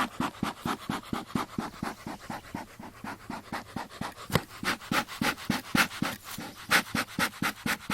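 Beekeeper's smoker bellows pumped quickly, puffing air through the smoker about four times a second to keep the fuel burning and the smoke coming.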